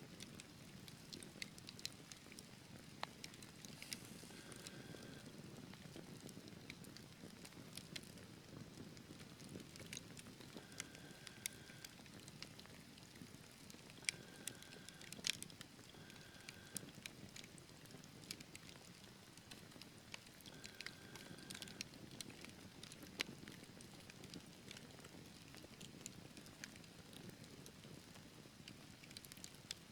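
Wood fire burning in a fireplace: a soft steady rush of flames with scattered sharp crackles and pops from the logs, a few louder pops now and then. Several brief faint whistling tones, each about half a second long, come and go.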